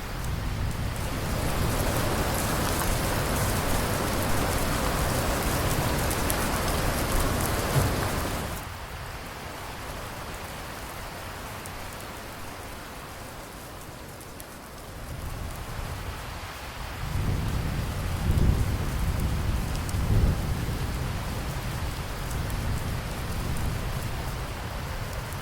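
Steady heavy rain hissing, which drops suddenly to a lighter patter about a third of the way in. Low rolling thunder rumbles through the second half, swelling twice.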